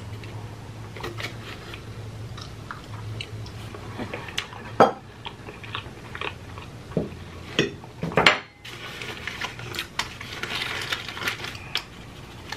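Close-miked chewing and wet mouth sounds of a man eating fried chicken, with many small clicks and a few louder sharp ones about five and eight seconds in, over a low steady hum.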